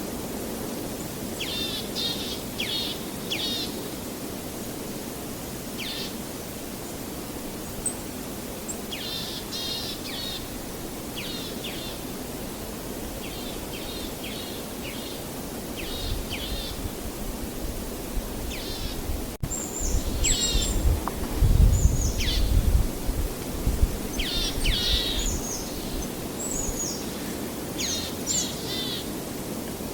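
Songbirds chirping and trilling in short repeated phrases over a steady rushing wash of waves. About halfway through, a deeper rumble swells for several seconds and then fades.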